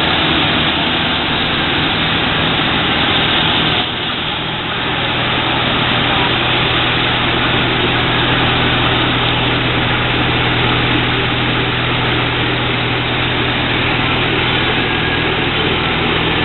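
An inflow twister for baler twine running steadily: a constant mechanical noise over a low motor hum. It dips briefly about four seconds in, then carries on with a slightly stronger hum.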